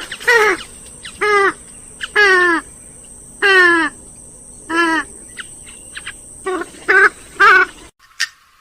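Grey-headed swamphen giving a series of loud calls, about one a second, each one dropping in pitch. Near the end the calls cut off abruptly into a much quieter recording.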